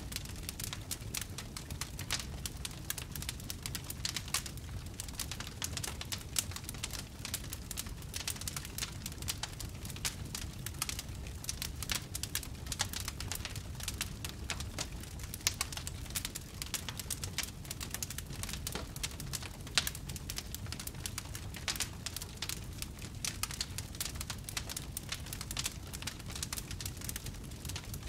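Wood fire in a fireplace burning steadily with dense, irregular crackling and pops over a low rumble of the flames; a few louder pops stand out, the sharpest about twenty seconds in.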